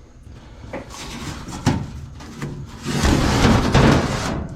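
Sheet-metal panel scraping and rattling as it is worked into place in a car's trunk floor, with a sharp clank about a second and a half in and the loudest scraping near the end before it stops.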